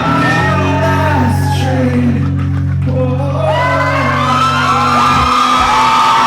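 Live rock band playing, with a low bass note held for about five seconds under singing and the audience's whoops and shouts.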